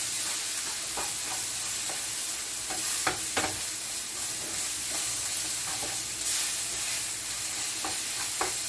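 Omena (small Lake Victoria sardines) sizzling as they fry in a non-stick frying pan, stirred with a wooden spatula that scrapes through them. A steady sizzle, with a few sharp knocks of the spatula against the pan, two close together about three seconds in.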